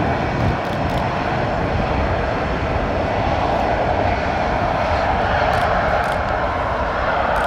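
Jet airliner's engines running loud and steady, a dense noise strongest in the mid range, which swells slightly near the end.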